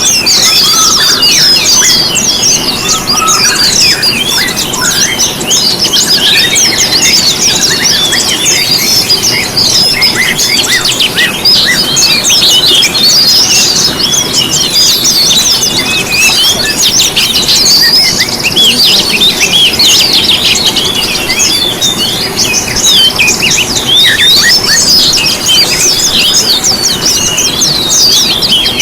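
A dense chorus of many small songbirds singing and chirping over one another without a break: rapid high trills, whistles and sweeps. It is a bird-lure (pancingan) mix of songs played to caged songbirds to set them singing.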